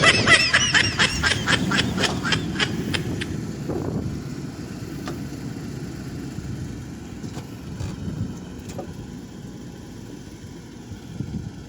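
Vehicle engine running low in the sand as it crawls over the dunes, slowly fading. In the first three seconds there is a quick run of short, high-pitched pulses, about four a second, that sound like a cry or laughter.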